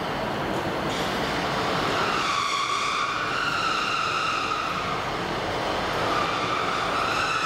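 Passenger train approaching slowly through the station over the rails. Its wheels start a high squeal about two seconds in and keep it up over the running noise.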